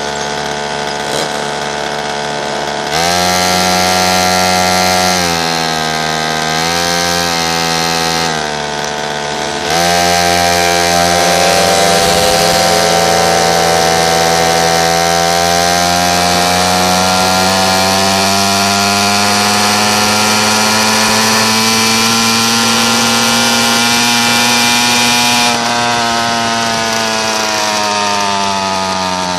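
Pocket bike's small engine running under throttle: it revs up about three seconds in, eases off and comes back on twice, then holds a long, slow climb in pitch before falling away near the end.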